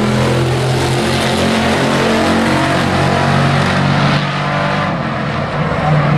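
Engines of several hobby-class race trucks running together on the track, their pitches shifting as they pass.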